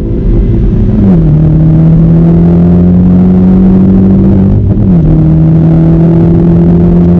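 A 500 bhp car's engine pulling under acceleration, loud and steady. Its pitch drops sharply twice, about a second in and just before five seconds, as it changes gear.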